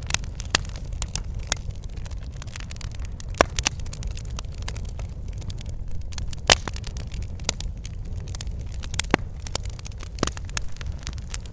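Wood fire in a fireplace crackling, with irregular sharp pops over a steady low rumble of the flames. The loudest pop comes about six and a half seconds in.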